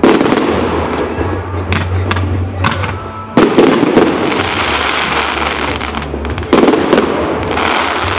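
Aerial fireworks bursting: three loud bangs about three seconds apart, each followed by a long crackling hiss as the shells break, with smaller pops between them.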